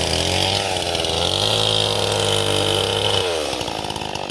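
Chainsaw engine running, its pitch swelling up and down as it is revved, then easing off near the end.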